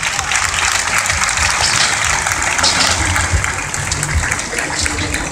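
Crowd applauding, a dense steady clatter of many hands clapping.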